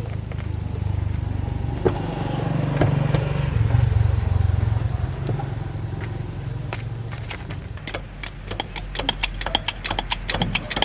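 An engine running with a low rumble that swells around four seconds in and dies away after about seven seconds, followed by a run of sharp metallic clicks and clinks.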